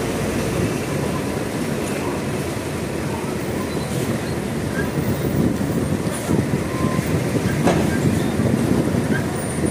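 Heavy trucks rumbling and clattering as they roll onto a ferry over its steel loading ramp, with irregular knocks and a sharp clank near the end.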